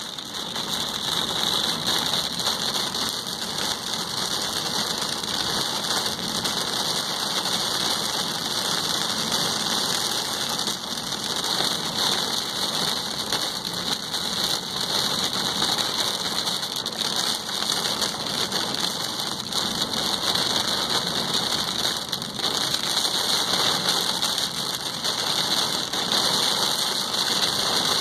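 Heavy rain beating on a car's roof and windscreen, heard from inside the cabin as a steady, dense patter of drops.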